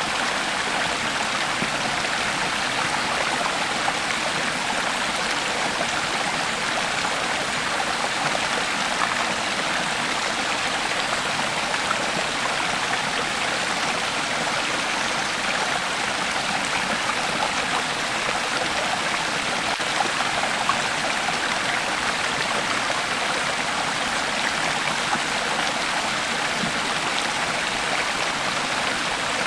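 Creek water flowing over stones, a steady rushing babble with small splashes and gurgles scattered through it.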